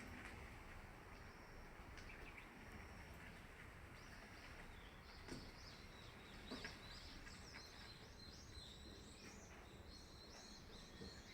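Faint, steady low background noise with a small bird twittering in rapid high chirps from about four seconds in, and a couple of soft knocks midway.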